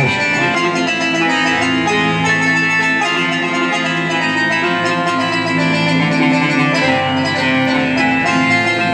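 Live band music: an instrumental passage with a plucked string instrument carrying the melody over a dense, sustained backing.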